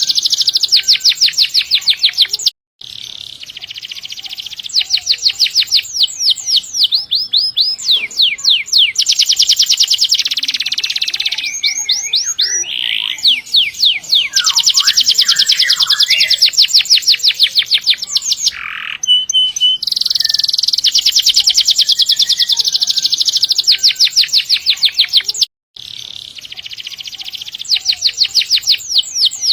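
Domestic canary singing long, rapid rolling trills of quickly repeated high notes, switching between trill types, with the song cut off briefly twice, about three seconds in and near the end.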